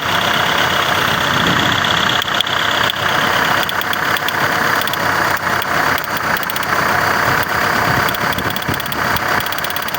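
An engine running steadily at idle, with a fast, even firing beat.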